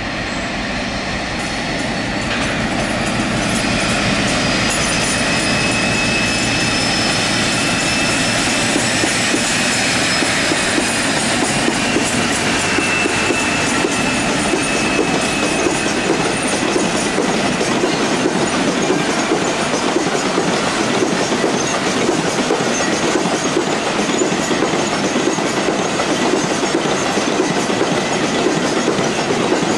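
Freight train hauled by two diesel locomotives passing close by. The engines drone low at first, with a high steady squeal over the first half. Then the hopper wagons rattle past with a steady clickety-clack of wheels over the rail joints.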